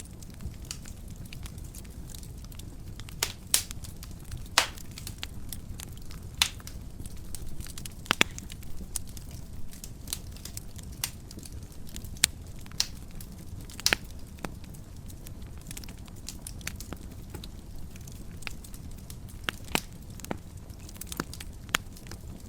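Wood fire burning in a fireplace, crackling with frequent sharp irregular pops and snaps over a low steady rumble of the flames.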